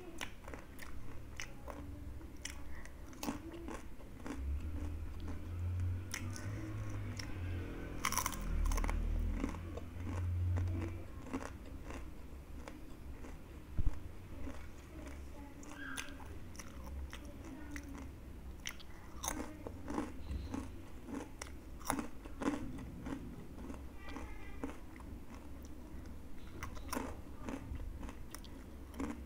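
Crispy fried snacks being bitten and chewed, a run of irregular sharp crunches and crackles close to the microphone. One much louder sharp click comes about halfway through.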